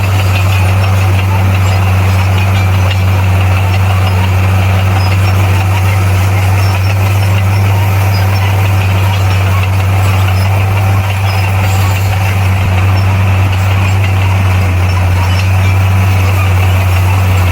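Bulldozer's diesel engine running steadily: a loud, even low drone that holds one pitch throughout.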